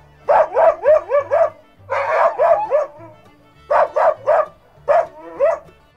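A dog barking in quick runs of several barks each, four runs in all, the later runs shorter, over steady background music.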